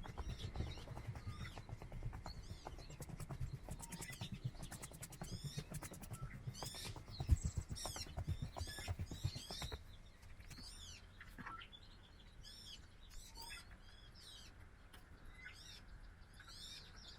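Birds chirping, with many short, quick calls, over the dull thuds of footsteps going down steps; the footsteps fade out about ten seconds in, and the birds keep calling.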